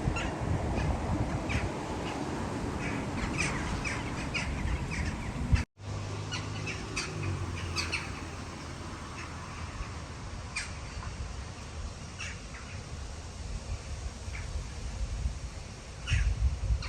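Wild birds giving short, scattered chirps and calls over a low outdoor rumble. The sound cuts out for a moment about six seconds in, and the rumble swells near the end.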